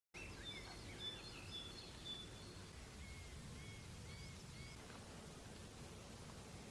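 Songbirds chirping, faint: several quick high chirps and trills in the first two seconds, then four short repeated notes around the middle, over a low steady rumble.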